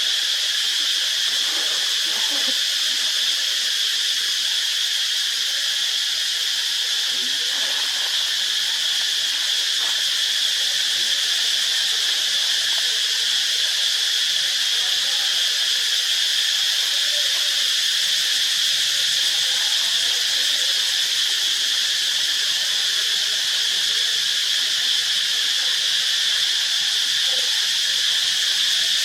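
Steady, unbroken high-pitched buzzing drone of an insect chorus, such as cicadas, at a constant level throughout.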